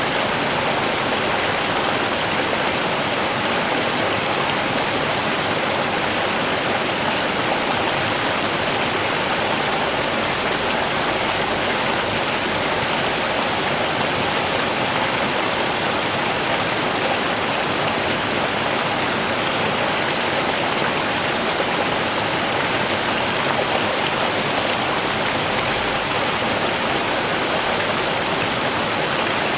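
Water of a flowing river or stream, a steady rushing that does not change.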